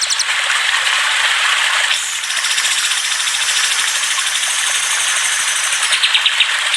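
Songbirds chattering: rapid repeated high chirps and trills over a steady high hiss, with a louder burst of trilled notes near the end.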